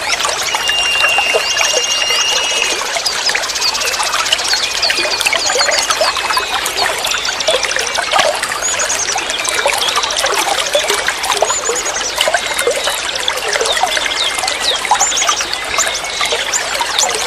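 Water trickling and gurgling steadily, with small birds chirping and whistling over it in short, high calls.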